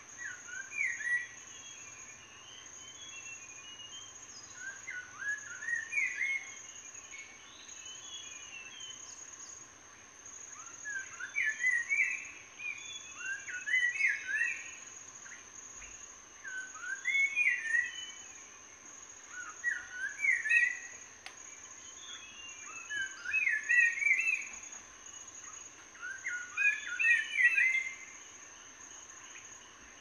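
A songbird singing short phrases of quick rising notes, repeated about every three seconds, over a steady high-pitched insect drone.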